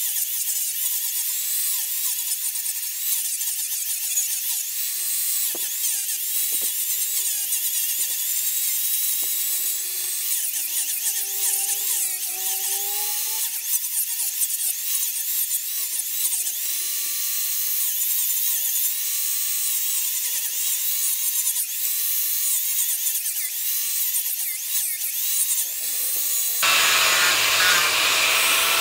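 Power tool grinding steel: a steady high hiss with a wavering whine that rises and falls as the load changes. Near the end the sound turns fuller and louder.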